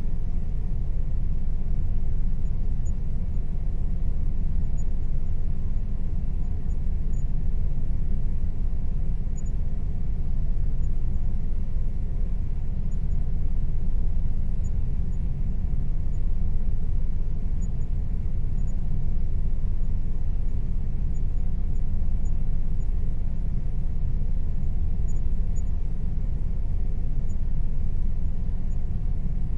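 Air conditioner running steadily with a deep, even rumble and a faint steady hum above it.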